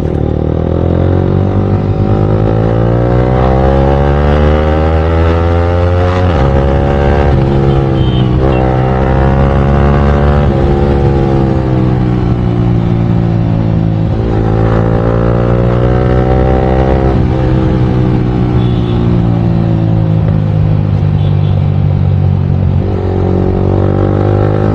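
Yamaha R15 V4's single-cylinder engine through an Akrapovic full-system aftermarket exhaust, accelerating through the gears: the pitch climbs and drops back at each of several gear changes. Near the end it eases off and falls in pitch, then picks up again.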